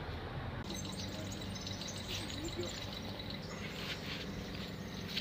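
Outdoor background with small birds chirping: a run of short, high chirps in the first half, over a steady low hum.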